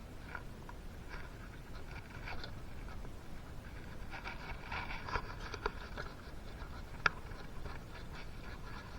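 Light clicks and scrapes of small engine parts and tools being handled during piston fitting, busiest around the middle, with one sharp click about seven seconds in.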